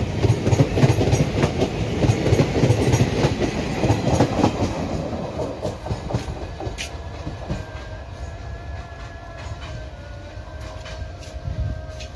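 Passenger coaches of an Indian Railways express passing close at speed, their wheels rumbling and clattering over the rail joints. The sound then fades as the train moves away. Faint steady tones begin about halfway through.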